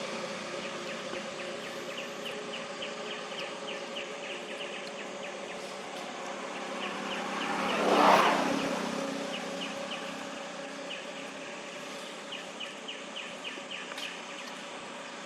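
A vehicle passes, swelling up and fading away, loudest about halfway through, over a steady outdoor hum and runs of rapid, high chirping.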